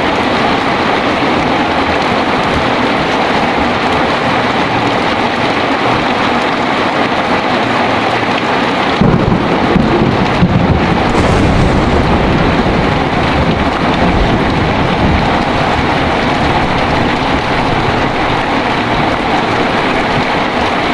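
Heavy rain falling steadily. About halfway through, a low rumble of thunder breaks in suddenly and fades over several seconds.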